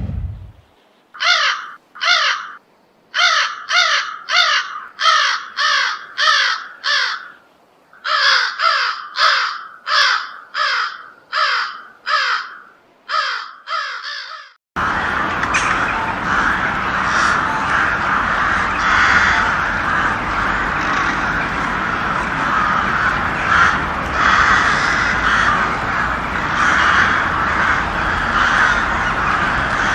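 Crows cawing: a run of separate harsh caws, about two a second in short series. About halfway through this cuts to a dense, unbroken din of many crows cawing over one another.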